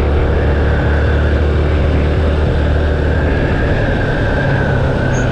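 Yamaha FZ-S V2 motorcycle's single-cylinder engine running steadily while riding on a paved road, with a steady rush of wind and road noise.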